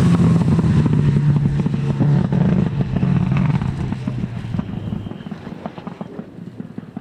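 Four-wheel-drive rally car passing at speed. Its engine note drops as it goes by, then fades into the distance with short crackles running through it.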